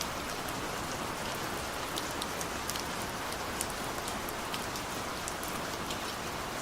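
Heavy rain falling steadily, a dense even hiss with many sharp individual drop ticks on a hard surface.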